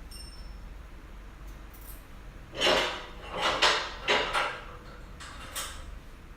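Steel dolly parts and hardware clinking and clattering as they are handled and fitted together, in a cluster of knocks about halfway through and a shorter rattle near the end.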